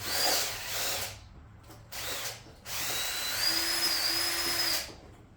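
Power drill on a stuck fastener: a few short bursts, then a steady run of about two seconds with a high motor whine.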